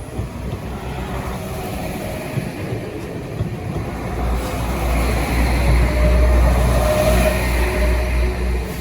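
Northern Ireland Railways diesel train passing through a level crossing. A steady rumble of engine and wheels builds and grows louder about halfway through, with a faint humming tone on top.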